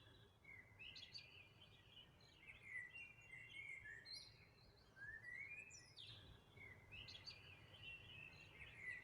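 A songbird singing faint, repeated phrases of quick chirps and warbled notes, one phrase about every three seconds, over a low, steady background rumble.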